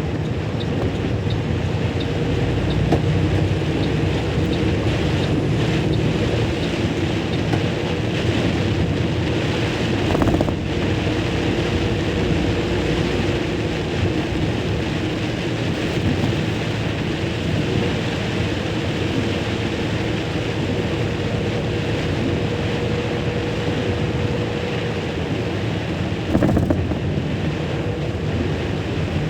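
Steady rush of wind over the microphone and vehicle road noise while riding in rain, with a faint steady hum underneath. Two brief louder thumps, one about ten seconds in and one near the end.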